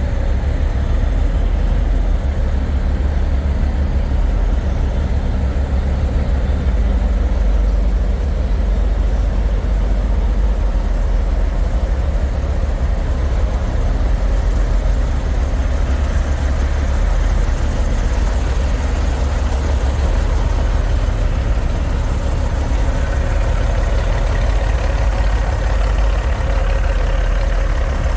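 Semi-truck diesel engines idling: a steady low rumble.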